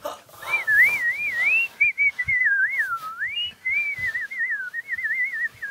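A person whistling a warbling, bird-like song for a robin character: one clear high tone wavering quickly up and down, with a few short breaks and a slower dip in pitch about three seconds in.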